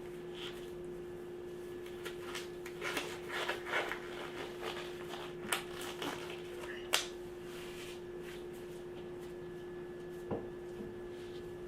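Gloved hands handling a sticky oat and peanut-butter mixture: soft rustles and small clicks as balls are rolled and set down on a cookie sheet, with a couple of sharper taps, over a steady low hum.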